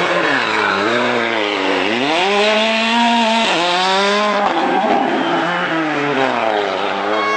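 Rally car engine revving hard: the pitch climbs, drops sharply at a gear change about three and a half seconds in, climbs again, then the engine eases off under a stretch of rushing noise before low revs pick up near the end.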